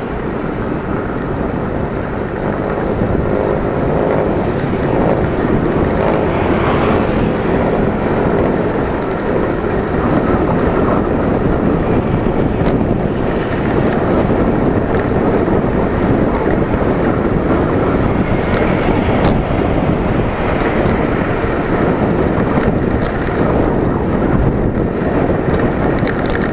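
Wind rushing over the microphone of a moving bicycle's camera, a loud steady rush that grows a little louder about three seconds in, mixed with road and traffic noise.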